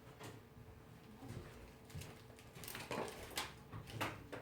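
Several light, sharp clicks and taps, as of tools being picked up and handled on a repair bench, over a faint steady hum. The clicks come in the second half.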